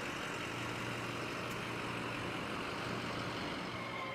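Fire truck engine running steadily with road noise.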